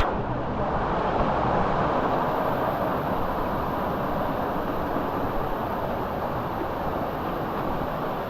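Steady roar of rushing canyon water, an even rushing noise.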